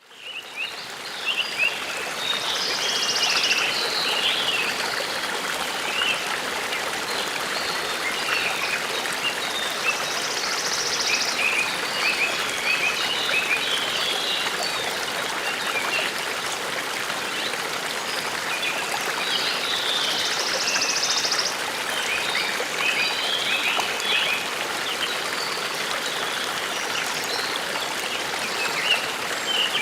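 A forest brook babbling steadily, with small birds chirping over it and a buzzy high trill coming back three times, several seconds apart.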